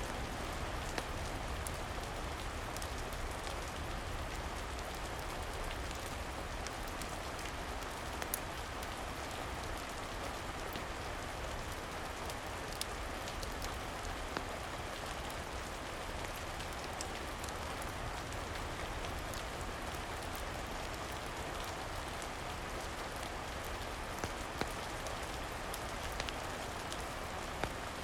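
Steady rain falling, an even hiss with scattered sharp little ticks of drops.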